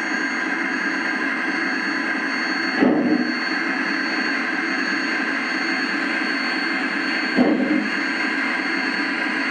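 Steam sound effects from the DCC sound decoder of a G-scale FEF-3 model steam locomotive, played through its small onboard speaker: a steady hiss of a standing steam engine, with a short louder burst twice, about three and seven and a half seconds in.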